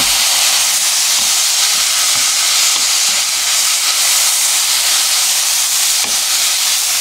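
Shishito peppers and small dried anchovies sizzling loudly in hot oil in a nonstick wok, a steady frying hiss, stirred with a wooden spatula that knocks softly against the pan a few times.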